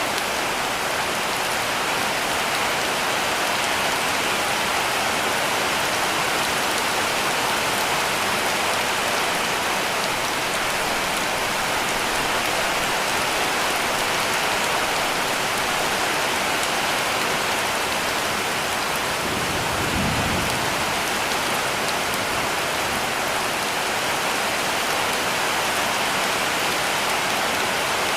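Heavy rain falling steadily on a cabin roof, a dense, even hiss of drops. A brief low rumble comes about two-thirds of the way through.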